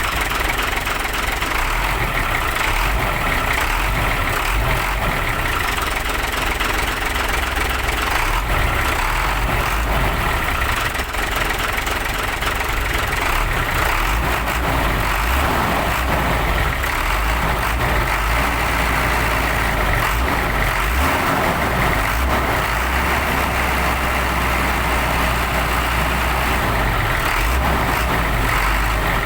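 Hino 500 New Generation truck's diesel engine idling steadily.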